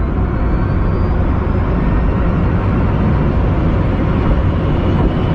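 Rimac Nevera electric hypercar accelerating hard from a launch. A faint whine from its four electric motors rises in pitch at first, under a loud, steady rush of tyre and wind noise.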